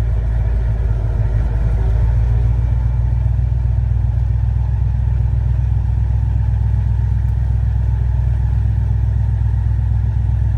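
Airboat engine and propeller running steadily with a deep, even drone.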